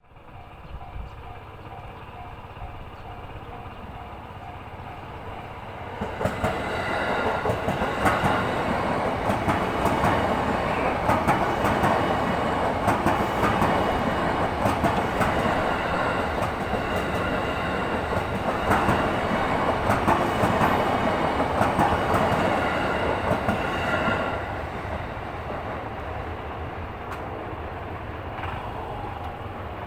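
Level-crossing warning alarm chiming in an even repeating beat, then a train passing over the crossing from about six seconds in, its wheels clacking over the rail joints. The train sound drops away at about 24 seconds.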